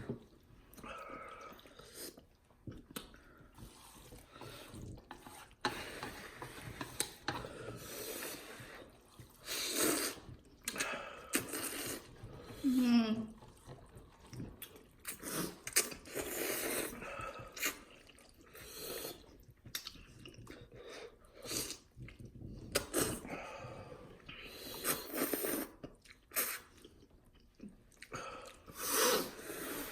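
Ramen noodles being slurped and chewed, in short wet bursts one after another, with a brief falling vocal sound near the middle.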